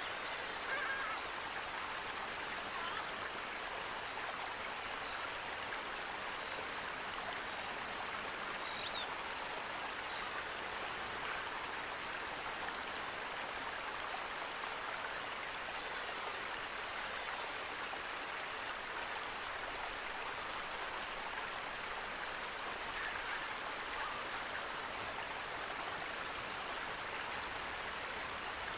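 Flowing water rushing steadily, with a few faint, short bird chirps.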